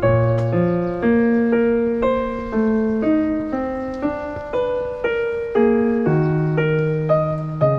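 Background piano music: a slow melody over sustained chords, with a new note struck about every half second.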